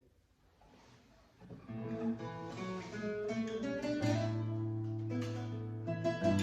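Acoustic guitar music fading in after about a second and a half of near silence, with plucked notes and chords ringing on.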